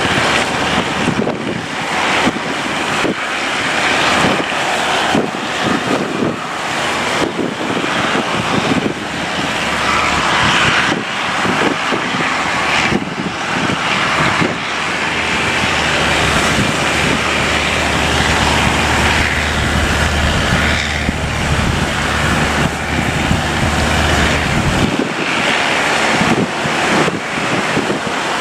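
Wind buffeting the microphone over the rush of surf, with a boat engine's low steady drone under it for most of the time that stops about three seconds before the end.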